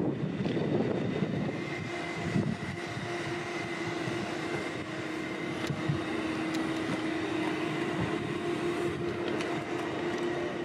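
Jet airliner passing near Narita airport: a steady engine whine, with wind blowing over the microphone.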